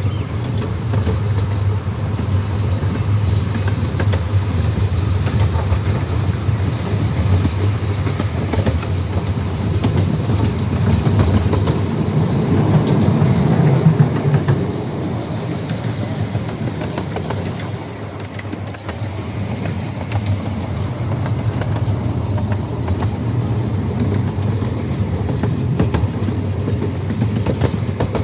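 Amusement-park train running along its track, heard from aboard: a steady rumble of wheels on rail with clickety-clack, swelling a little about halfway through.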